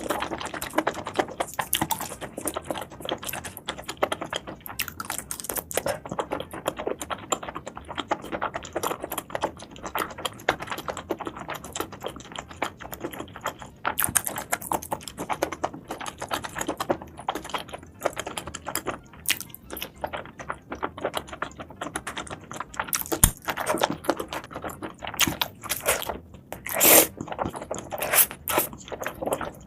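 Close-up eating sounds: seafood being chewed and crunched, with a dense, irregular run of wet clicks and crackles and a few louder crunches near the end.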